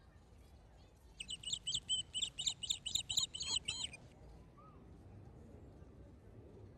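A bird calling: a quick run of about a dozen sharp, repeated chirps, about five a second, lasting some three seconds, over faint outdoor background noise.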